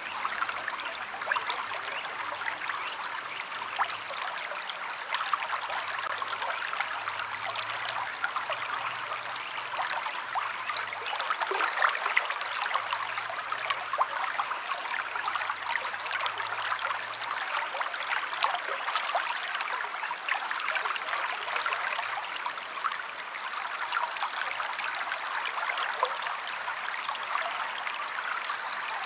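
A river flowing steadily, a continuous babbling rush of water dense with small trickles and splashes.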